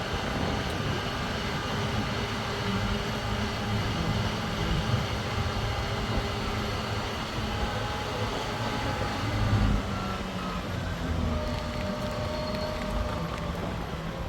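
A motor vehicle running: a steady engine and road rumble, loudest in the low end.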